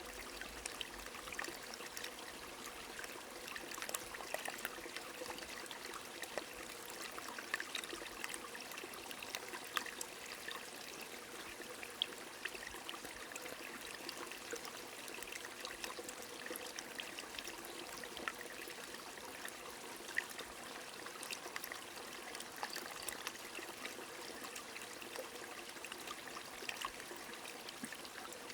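Rain falling steadily, with many small drop ticks, over a running stream's steady trickle.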